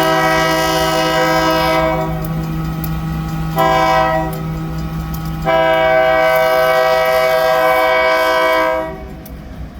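Diesel locomotive horn sounding a multi-note chord in three blasts: one ending about two seconds in, a short blast, then a long blast of about three seconds that stops near the end.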